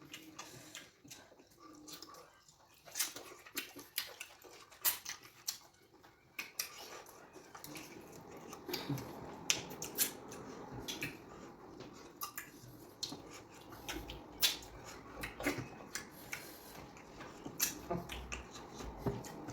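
Close-up eating sounds of fufu with okra soup: irregular wet smacks and clicks of lips and chewing.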